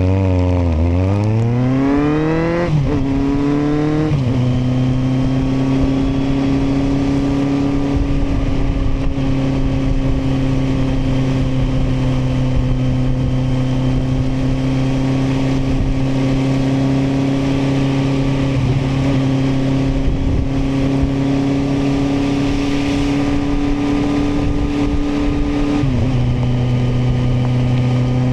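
Kawasaki motorcycle engine accelerating hard, its pitch climbing, with two quick gear changes in the first four seconds. It then cruises at steady revs, and near the end the revs drop with one more shift and settle again.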